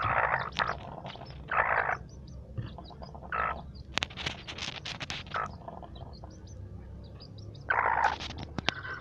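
A chick and a mother hen: many short, high peeps and chirps, with several rough half-second bursts from the hen.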